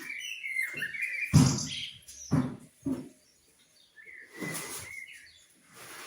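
Small birds chirping in short bursts, twice, mixed with a few short rustling or knocking noises, the loudest about a second and a half in.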